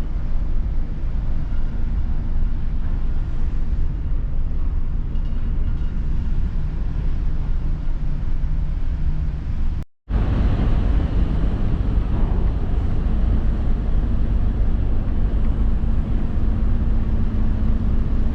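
Steady low rumble of a car ferry under way, with a faint steady hum under it. The sound cuts out for a moment about ten seconds in, then carries on.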